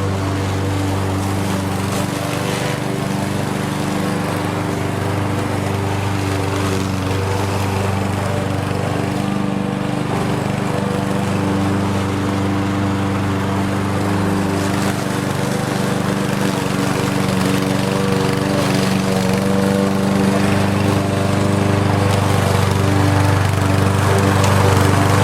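Lawn mower engine running steadily, a continuous hum that dips and returns in pitch a couple of times and grows slightly louder near the end.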